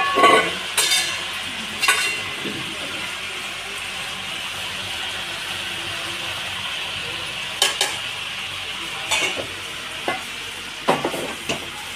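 Chicken frying with spices in a pot, a steady sizzle, while a spoon stirs it and scrapes against the pot several times, mostly in the first two seconds and in the last few.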